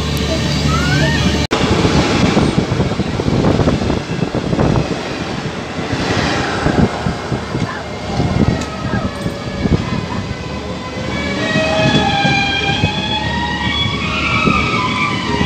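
Passenger train running at speed, heard from inside the coach at a window: a steady rumble with irregular rattles and clacks of the wheels over the rail joints.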